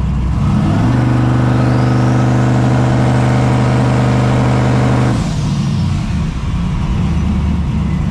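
Twin-turbo 383 LS V8 idling unevenly, then brought up to a steady held rpm for about four seconds, with a whistle from the turbos rising as it comes up, before it drops back to idle.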